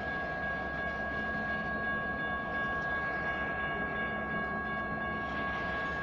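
A freight train rumbling steadily through a grade crossing, with the crossing's General Signals Type 1 electronic bells ringing continuously above it as a steady high tone.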